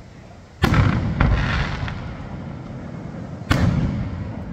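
Aerial firework shells bursting: two sharp bangs about three seconds apart, the first followed by a couple of smaller reports, each trailing off in a low rumble.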